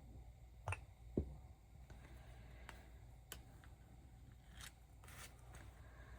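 Faint clicks and taps of small nail-stamping tools being handled, with a short scrape about five seconds in. The two loudest clicks come about one second in.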